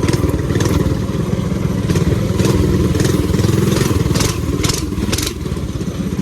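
Minibike's 196cc single-cylinder engine, governor deleted and breathing through a PZ26 carb and header pipe, running hard while the bike is ridden, with sharp clattering ticks over it. The engine eases off slightly about five seconds in.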